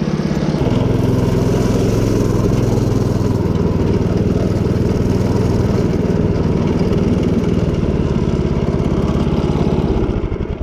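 Stretched mini bike's small gas engine running hard at high revs on a top-speed run. Its note steps up slightly just under a second in, holds steady, then drops and fades near the end as the throttle comes off.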